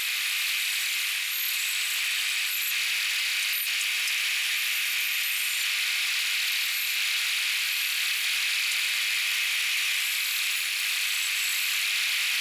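Vintage bandsaw, belt-driven from a line shaft, running steadily as its blade cuts through wood.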